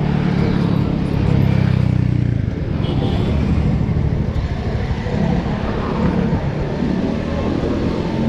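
Street traffic: a motor vehicle engine running close by, its low hum loudest for the first two and a half seconds, then fading into the general roar of the road.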